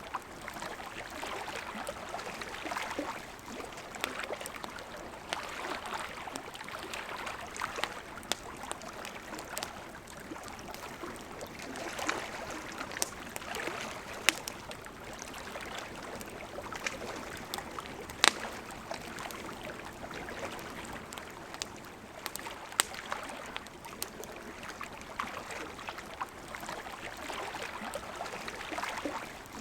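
River water flowing steadily, with a wood campfire crackling over it and now and then a sharp pop, the loudest a little past halfway.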